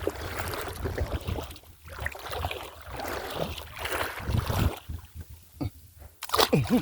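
Water splashing and sloshing in uneven surges, with a brief voice near the end.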